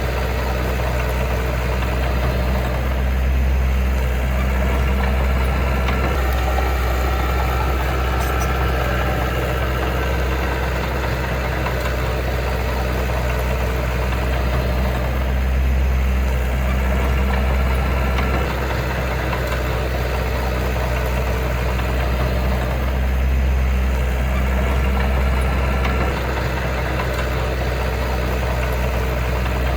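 Heavy diesel engine of earthmoving machinery running steadily with a deep rumble, swelling a little now and then as it takes load.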